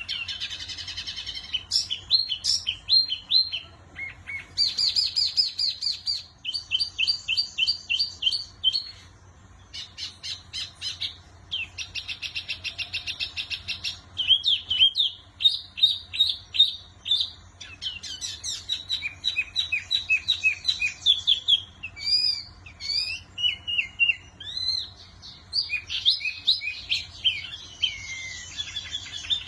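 Wambi mini songbird singing vigorously: a long run of varied phrases made of rapid high chirps and trills, broken by brief pauses. A faint steady low hum lies underneath.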